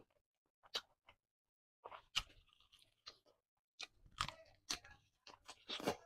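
Close-miked bites and chewing of chicken, a series of separate crunches that come thicker in the second half.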